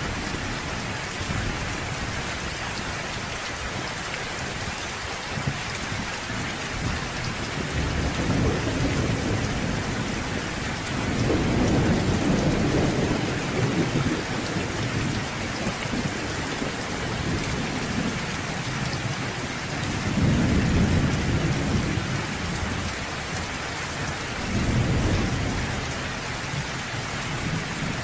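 Thunderstorm: steady rain with low rolls of thunder that swell and fade four times, the longest and loudest rumble about eleven seconds in.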